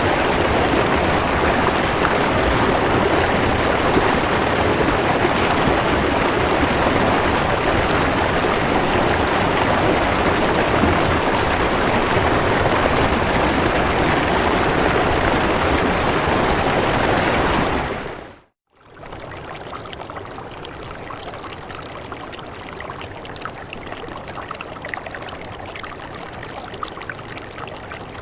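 Steady, dense rain noise. About eighteen seconds in it fades briefly to silence and resumes as a quieter, lighter rain with scattered individual drips.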